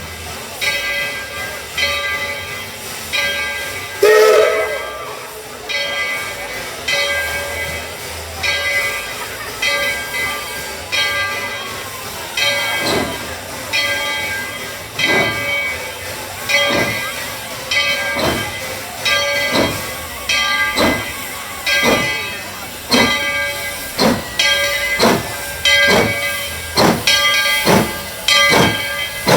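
Narrow-gauge steam locomotive chuffing with steam hissing. Its exhaust beats quicken from about one a second to nearly two a second as it picks up speed. About four seconds in there is one short, loud burst.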